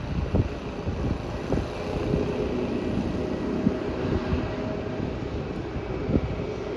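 Distant aircraft engines at an airport, a steady hum with faint tones, with some wind on the microphone.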